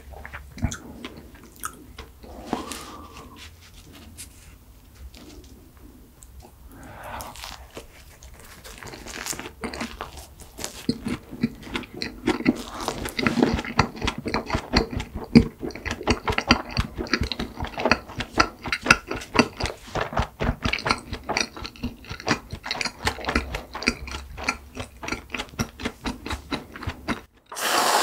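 Close-miked chewing of flaky croissant pastry with whipped cream: soft, wet mouth sounds at first, then from about ten seconds in a dense run of crisp, crackly chewing. Right at the end, after a brief silence, a loud hiss of whipped cream spraying from an aerosol can starts.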